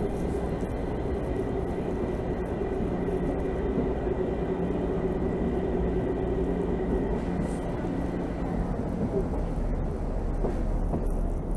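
Narrow-gauge train running on the move, heard from the coach: the steady drone of its ZDM-3 diesel locomotive's engine over the running noise of wheels on rails. A faint high steady tone runs through the first part and fades out about two thirds of the way in.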